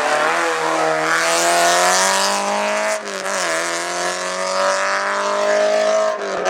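Race car engine accelerating hard up a hillclimb course, revs climbing, with an upshift about three seconds in and another lift or shift just before the end.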